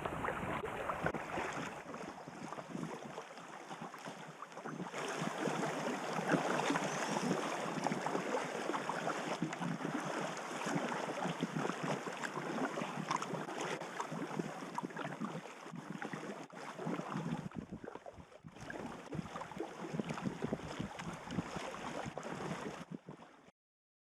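Steady, dense patter of heavy rain falling on the river and the packraft, mixed with the water noise around the boat. The sound shifts, fuller and lower, about seventeen seconds in.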